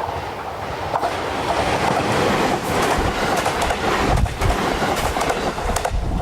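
Train passing close by on the Ako Line, its wheels clattering over the rail joints in a run of clacks and thuds over a steady rush of running noise.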